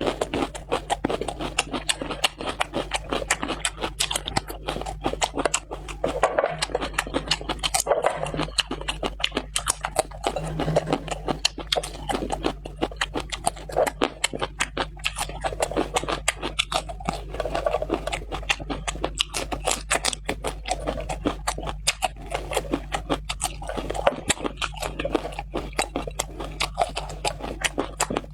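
Close-miked eating: dense, rapid wet clicks of chewing and mouth smacking, over a steady low hum.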